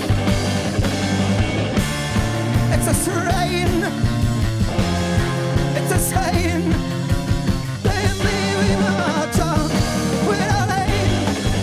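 Live rock band playing loud, with bass, guitar and drums and a sung vocal line over them.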